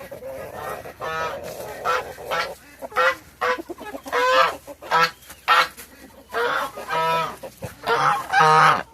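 Backyard geese honking over and over, about a dozen calls one or two a second, the loudest near the end.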